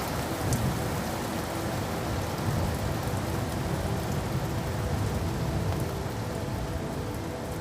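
Steady rain falling on a surface: an even hiss with scattered drop impacts, and a low rumble swelling underneath through the middle.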